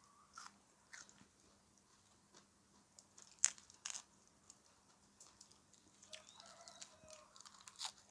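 Close-up chewing and crunching of crisp food in the mouth: scattered soft crunches, with two sharper bites about three and a half and four seconds in.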